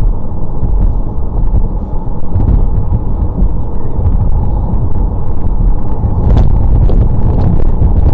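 Steady low rumble of engine and road noise from inside a vehicle's cabin, with a brief click about six seconds in.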